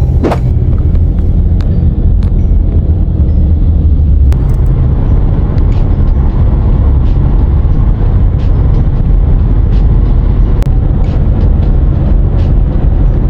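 Steady low rumble of a car being driven, with road and engine noise heard inside the car, and a few faint clicks.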